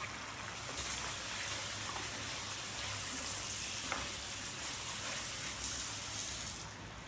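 Blended shallot paste frying in oil in a wok, sizzling steadily while a spatula stirs it, with a few light scrapes of the spatula on the pan. The sizzle drops near the end.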